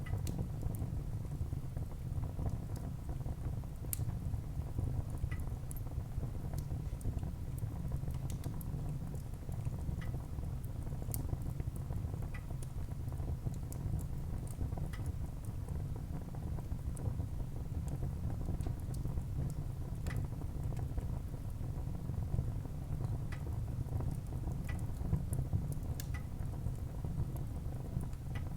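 Wood fire burning in a fireplace: a steady low rumble of flames, with scattered crackles and a sharp pop every few seconds.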